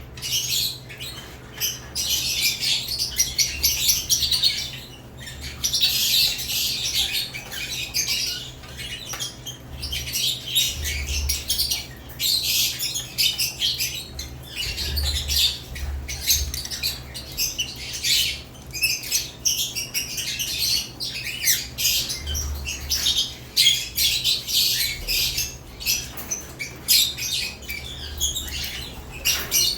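Caged lovebirds chirping and squawking in a continuous high-pitched chatter, broken by a few brief pauses.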